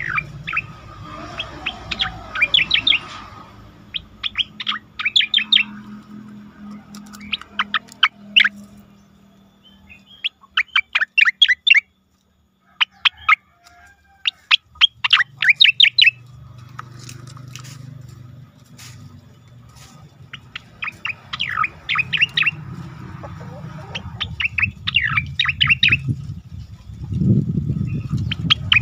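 Cucak koreng bird singing: repeated bursts of rapid, sharp whistled notes, each phrase a second or two long with short pauses between, over a low background hum that grows louder near the end.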